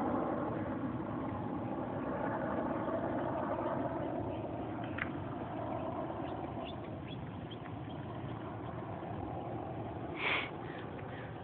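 A steady low rumbling noise, easing slightly, with a few short bird chirps midway and one louder short bird call about ten seconds in.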